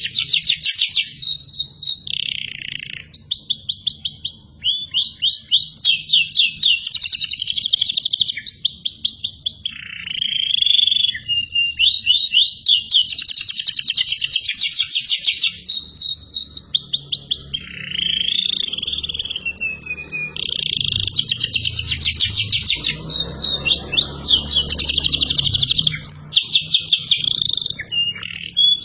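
Domestic canary singing non-stop in long phrases of rapid trills and rolls of fast repeated notes, broken by brief pauses and a few lower sliding notes.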